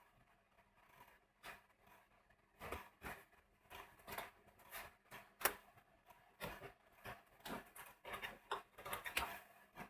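Irregular light knocks and taps of hand-tool work on wood, a dozen or so short sharp strikes at uneven intervals, the loudest about halfway through.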